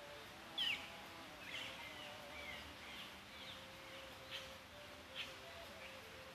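Birds chirping in short, scattered calls, the loudest about half a second in, over a faint steady background hum.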